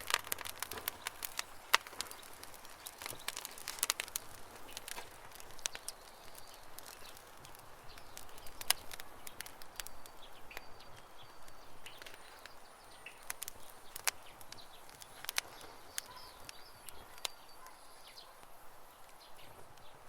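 Campfire crackling with irregular sharp pops, busiest in the first few seconds, while birds chirp faintly in the background.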